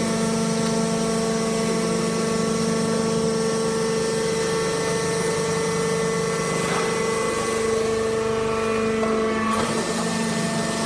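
Hydraulic wood-chip bagging baler running: a steady mechanical hum at a constant pitch, which wavers briefly near the end.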